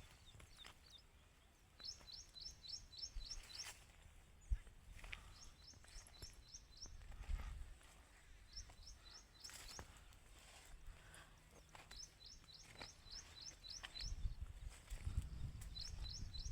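A small songbird repeating a short song phrase, a quick run of about six to eight high notes, every two to three seconds. Low rumbling noise rises near the end.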